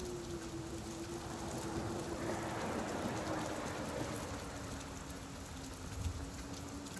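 Steady rain falling, with a faint low hum behind it that slowly sinks in pitch, and a brief low thump about six seconds in.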